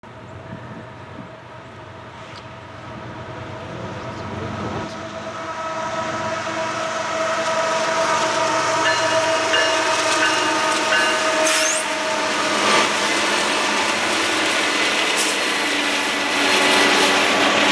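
Diesel-electric freight locomotives (GE GEVOs, a GE C40-8M cowl unit and an EMD SD70M-2) approaching and passing, their engine sound growing steadily louder over the first eight seconds, with several steady whining tones over it. The passing locomotives and the lumber cars behind them roll by with wheels clicking on the rails.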